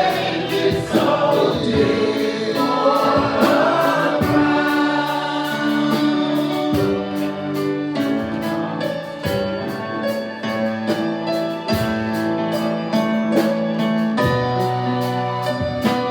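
Gospel praise-and-worship music: voices singing over held keyboard chords with a steady beat. The singing is most prominent in the first few seconds.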